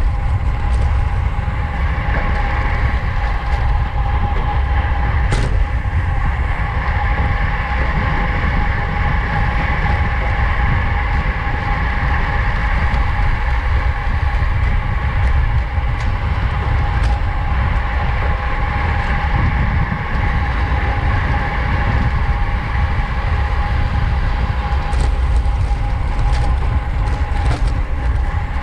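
Wind rushing over the camera microphone as a road bike rides at race speed, with tyre and drivetrain noise under it and a steady whine throughout. A few faint clicks come and go.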